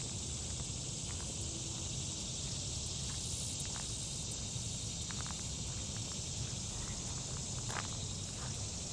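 A steady, high-pitched insect chorus, typical of crickets, over a low steady rumble, with a few faint clicks now and then.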